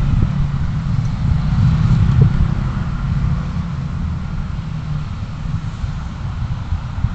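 Steady low rumble of a car driving: engine and road noise, easing slightly in level over the few seconds.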